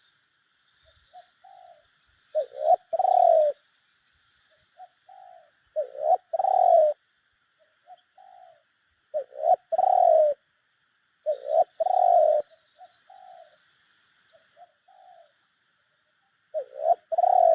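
Spotted doves cooing back and forth: five loud phrases of low coos a few seconds apart, with fainter, shorter coos answering between them. A faint high chirping runs underneath.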